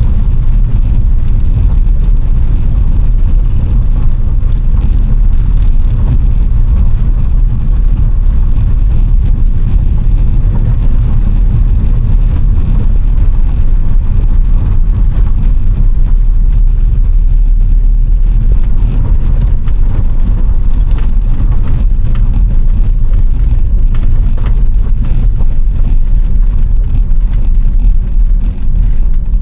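Vehicle on the move: a steady, loud, low engine and road rumble.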